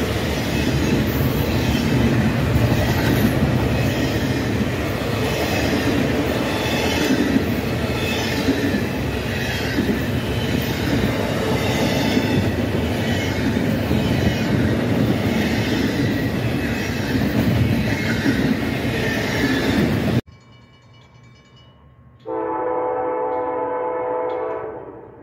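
Double-stack intermodal freight train rolling past close by: a steady rumble and rail noise with regular clicking of the wheels. About 20 seconds in it cuts off abruptly, and after a short pause a locomotive air horn sounds one long blast of several tones at once, about two seconds long, fading at the end.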